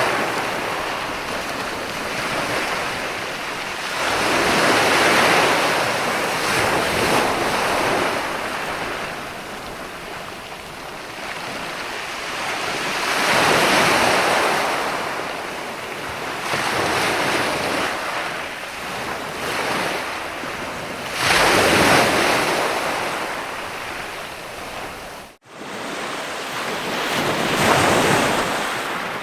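Ocean waves breaking and washing on the shore, a steady rush of surf that swells and ebbs in slow surges about every eight seconds. The sound drops out for an instant about 25 seconds in, then resumes.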